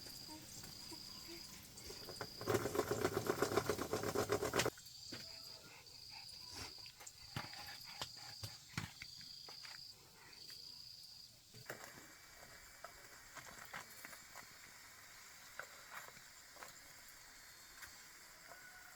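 An insect chirping in repeated short pulses of one high tone, with scattered light clicks and knocks. A loud two-second burst of rapid clatter comes about two and a half seconds in.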